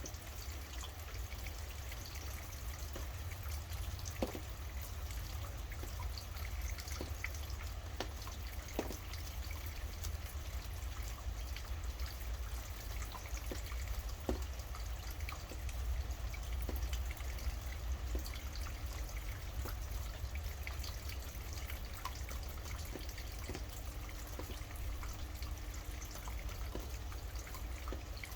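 Rain falling, with scattered drips and patters over a steady low rumble.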